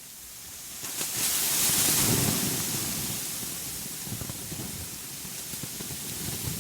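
A steady rushing hiss fades in out of silence and swells with a low rumble about two seconds in, then settles into an even hiss.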